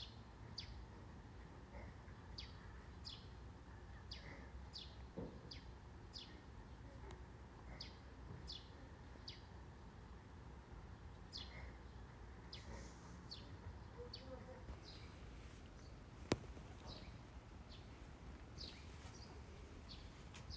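Small birds, taken for sparrows, chirping: short, high, falling chirps repeated about once a second, over a low steady background rumble. A single sharp click about three-quarters of the way through.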